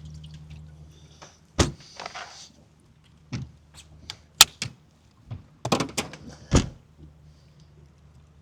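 Scattered knocks and clunks of gear being handled aboard a small fishing boat, about seven in all, the loudest about a second and a half in followed by a brief hiss, over a steady low hum.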